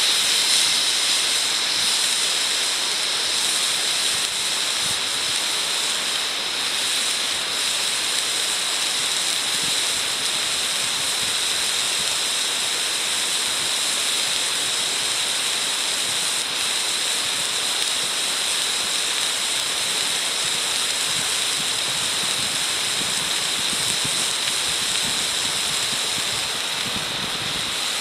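Steady, unbroken sizzling of food frying in a wrought-iron frying pan over a fire.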